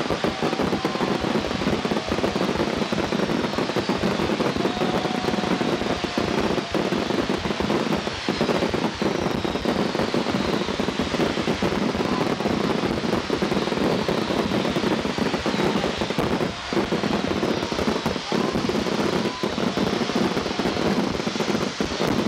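Dense fireworks barrage: shells bursting in rapid, unbroken succession with crackling, and whistles gliding in pitch over the top.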